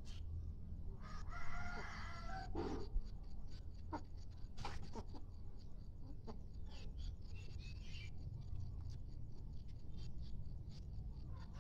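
Village chicken (ayam kampung) rooster crowing once, about a second in, the crow lasting under two seconds, followed by scattered sharp clicks and a few fainter calls over a steady low hum.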